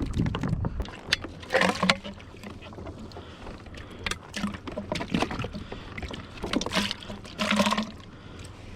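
On-board sounds of a Hobie Revolution 13 fishing kayak on the water: water splashing and sloshing around the hull, with scattered sharp clicks and knocks and a few louder splashy patches.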